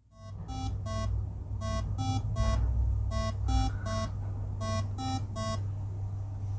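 Short electronic beeps in groups of three, about three beeps a second, changing pitch between notes, over a steady low hum.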